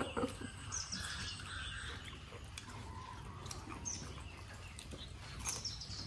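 Faint high bird chirps, a few short falling calls spaced a few seconds apart, over a quiet outdoor background.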